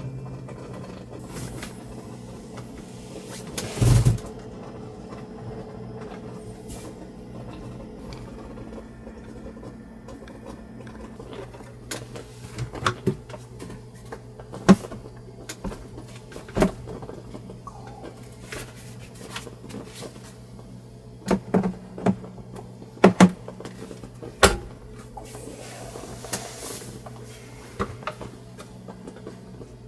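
Scattered knocks, clicks and clatter of things being handled and set down in a small enclosed space, over a steady low hum.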